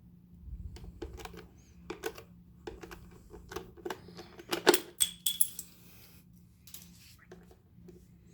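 Screwdriver turning out screws from the underside of a plastic humidifier base: a run of small clicks and rattles, with one louder click about halfway through.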